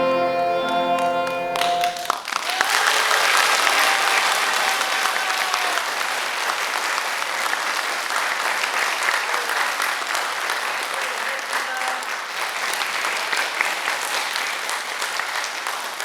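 A violin and cello ensemble holds its final chord, which cuts off about two seconds in; the audience then applauds for the rest of the time, the clapping thinning near the end.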